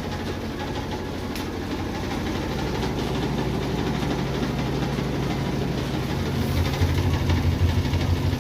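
Maytag high-efficiency washing machine running with a steady low drone and a rhythmic throbbing vibration that grows stronger in the last couple of seconds. The machine is shaking badly and running far too loud.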